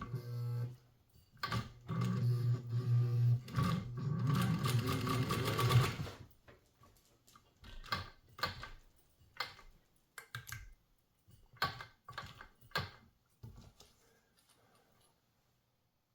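Singer 201 sewing machine running in short bursts as it stitches through layered tubular webbing, foam and flat bungee elastic, with a steady motor hum; it stops about six seconds in. Scattered clicks and knocks follow as the work is handled.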